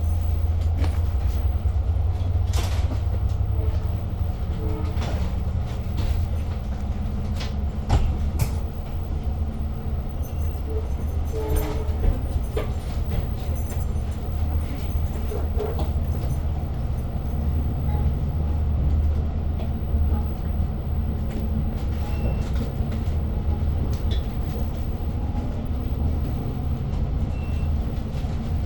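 Inside a moving Long Island Rail Road passenger coach: the steady low rumble of the train running, with scattered clicks and knocks from the car.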